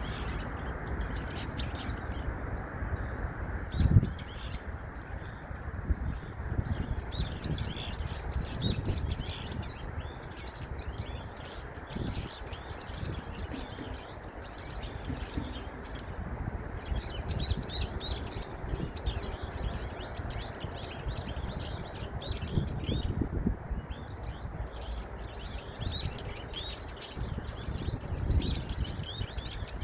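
Many small birds chirping in quick, overlapping calls, growing busier in the second half, over a steady low rumble. A single thump about four seconds in.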